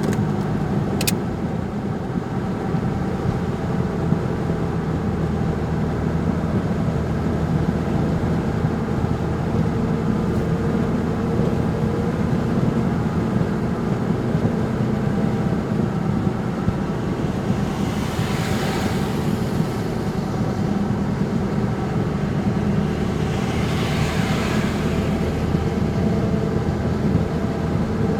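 Steady drone of a vehicle driving on a rain-wet highway, with two swells of tyre hiss, about two-thirds of the way in and again near the end, as other traffic passes.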